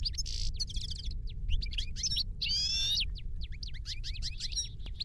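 Small songbirds chirping: quick runs of short, high, falling notes, with a brief warbling trill about two and a half seconds in, over a faint steady low rumble.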